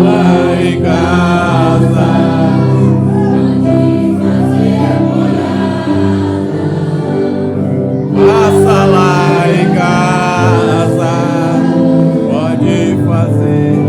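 Gospel worship music: a group of voices singing over sustained accompanying chords, with sung phrases in the first few seconds and again about eight seconds in.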